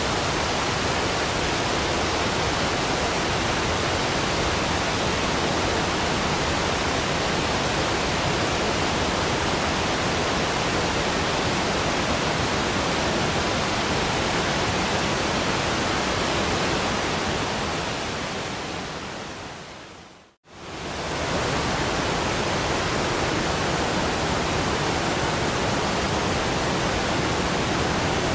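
Steady rushing water of a waterfall, a dense even hiss. About 18 seconds in it fades away over a couple of seconds to brief silence, then comes straight back at full level.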